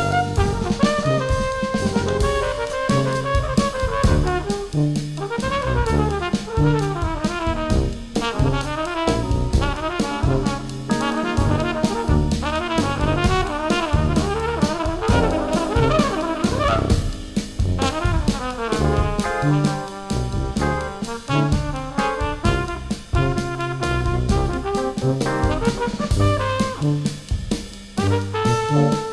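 Jazz brass ensemble playing: trumpets, baritone saxophone and tuba over keyboards and drum kit, with quick runs of notes above a repeating low line.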